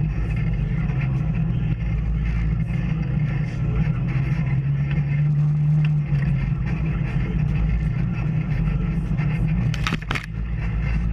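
Off-road vehicle engine running at a steady pace on a trail ride, with a low drone that swells slightly around the middle. A couple of sharp knocks come near the end.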